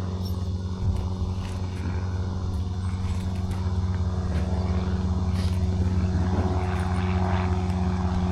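Steady low mechanical drone with a humming tone, getting slightly louder toward the end.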